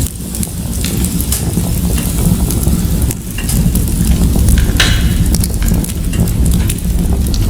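Wood fire in a fireplace crackling and popping steadily over a low rumble of flames.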